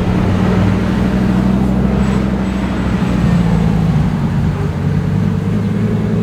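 Lamborghini engine running at low, steady revs, a deep even note that eases off slightly about halfway through.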